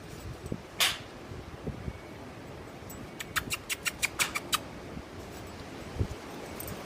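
Wind noise on the microphone, with a few low buffets, a single sharp click about a second in, and a quick run of about eight sharp clicks, some six a second, near the middle.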